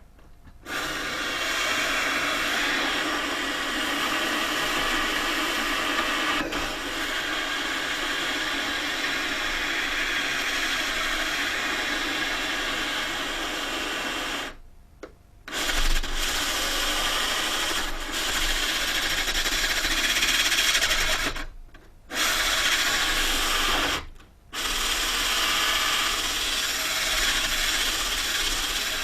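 Wood being sanded: a steady rubbing noise in long runs, broken by three short stops.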